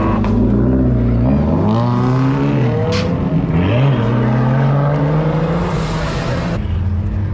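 Car engine revving, its pitch climbing, dropping sharply about halfway through, then climbing again, with a hiss that stops suddenly near the end.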